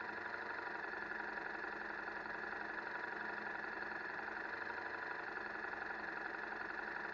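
KTM 1190 Adventure's V-twin engine idling steadily.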